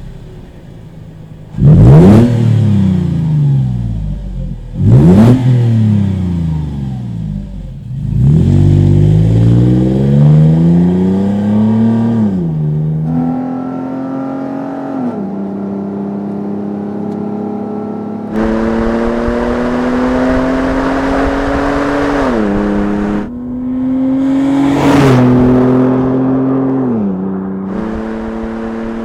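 Toyota FJ Cruiser's 4.0-litre V6 through a Borla dual-tip stainless cat-back exhaust: a brief idle, two sharp revs about a second in and about five seconds in, then the engine pulling hard under acceleration with its pitch rising and dropping at each upshift. A rushing noise joins the exhaust note in the last third.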